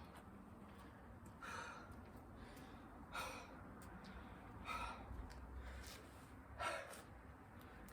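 A person breathing hard from exertion during a long burpee and chin-up workout, with four loud, forceful breaths spaced about one and a half to two seconds apart.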